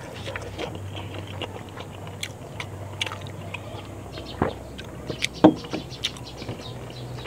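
Close-up eating sounds from a person chewing rice and dinuguan: many small wet mouth clicks throughout. A few louder swallows come about halfway through as he drinks from a metal cup. A steady low hum runs underneath.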